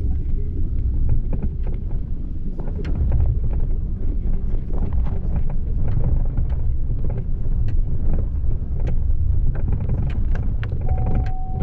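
A motor vehicle on the move: a steady low rumble with scattered small knocks and rattles.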